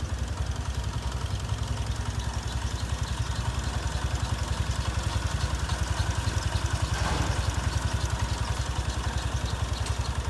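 A 2004 Toyota Sienna's 3.3-litre V6 idling steadily, with an even low pulse.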